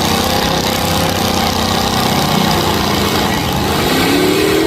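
Mud truck engine running, its pitch climbing near the end as it revs up.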